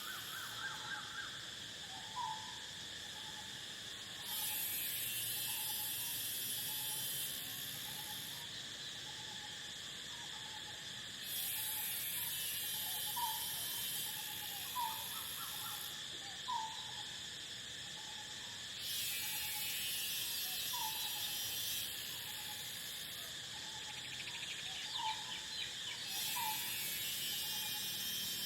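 Crickets and other insects chirring steadily. A louder, higher insect chorus swells in for three to five seconds at a time, about four times. Short rising bird calls repeat every second or so throughout.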